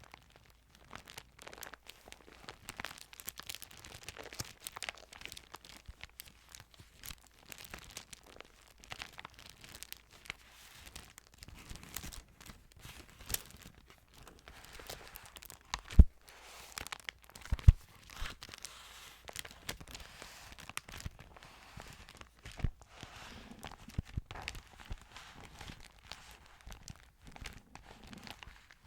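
Thin Bible pages crinkling and rustling as they are handled close to the microphone, with two sharp knocks a little past halfway.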